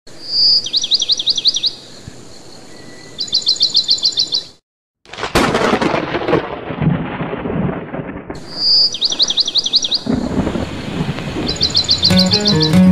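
Bird trills, each a quick run of high up-and-down chirps, over a steady hiss. After a brief dead silence, thunder rumbles loudly for about three seconds, then the same trills come back twice. Music starts near the end.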